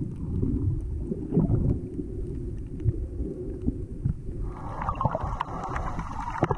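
Small boat underway: a low rumble of wind and water with frequent short thumps. A higher, steadier sound joins about four and a half seconds in.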